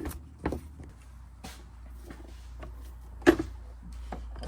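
Scattered clicks and knocks of plastic intake parts being handled by hand, with one sharper knock a little over three seconds in, over a steady low hum.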